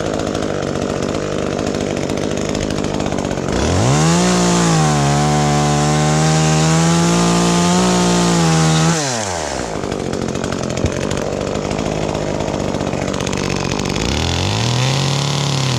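Two-stroke chainsaw idling, then run up to full throttle for about five seconds before dropping back to idle, and revved up again near the end.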